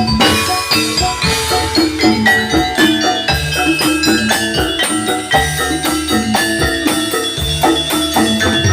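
Javanese gamelan music for a jathilan dance: bronze metallophones struck in a quick interlocking rhythm over low drum strokes, played loud.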